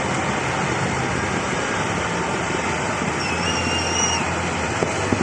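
Steady outdoor background din with no distinct bangs. A thin whistle tone sounds for about a second around three seconds in, and a few faint clicks come near the end.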